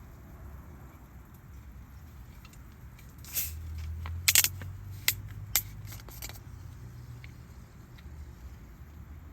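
A handful of sharp clicks and knocks in quick succession, over a steady low rumble.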